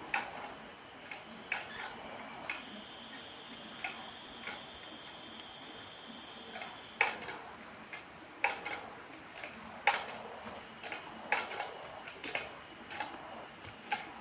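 Irregular sharp metallic clicks and clinks, some single and some in quick clusters, each with a short ring, from hand tools or rigging being worked on the fallen tree.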